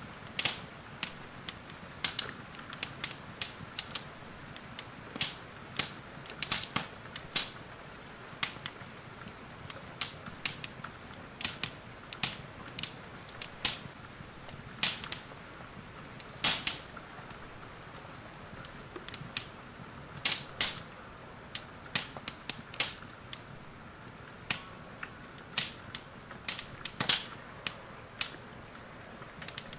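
Wood fire in a fireplace crackling, with irregular sharp pops at uneven intervals and a few louder snaps, over a steady hiss of rain.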